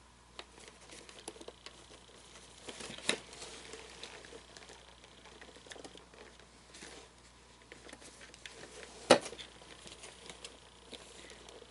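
Cloth rustling and small handling clicks as the tight costume pants of an animatronic figure are tugged down, with a sharp knock about three seconds in and a louder one about nine seconds in.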